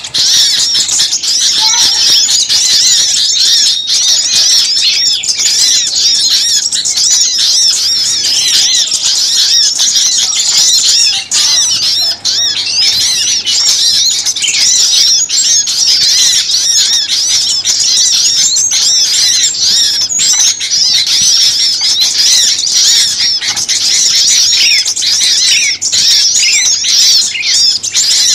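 Many small songbirds chirping and twittering at once in a dense, loud, unbroken commotion of quick high notes. It is an agitated mixed-flock chorus of the kind played as a lure call for small birds.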